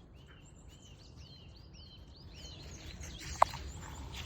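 A songbird singing a run of repeated whistled notes, about three a second, over a low steady outdoor rumble. A single sharp click sounds about three-quarters of the way through.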